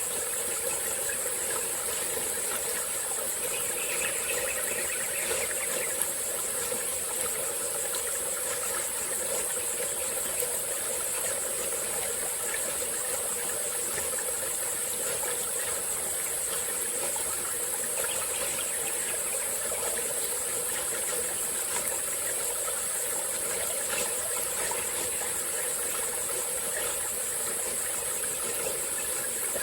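A small tropical-forest stream flowing and trickling steadily, under a constant high-pitched chorus of insects.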